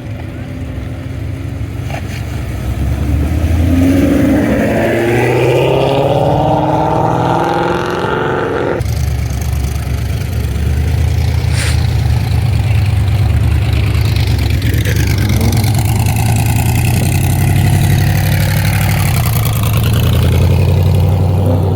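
Vehicle engines revving and accelerating as vehicles drive out of a car meet, the engine pitch rising several times. A sudden change in the engine sound about nine seconds in, and more rising and falling revs in the second half.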